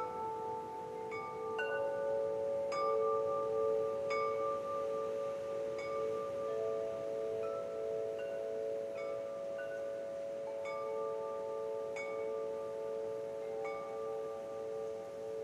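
Wind chimes ringing gently, metal tubes struck irregularly about once a second, each note ringing on for several seconds so the tones overlap.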